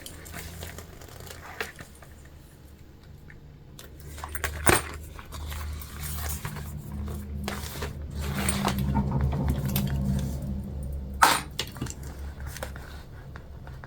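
Small clicks and clinks as sewing clips and jelly vinyl pieces are handled, with two sharper clicks near the middle and near the end over a low steady hum.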